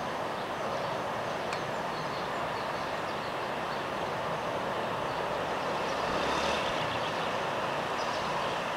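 Steady outdoor background noise: a continuous rush that swells slightly about six seconds in.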